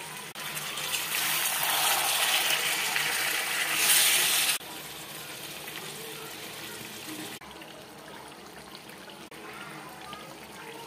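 Chicken gizzards and liver sizzling in hot oil in a kadai. The sizzle is loud for the first four and a half seconds, then cuts abruptly to a quieter simmering hiss, which drops again a few seconds later.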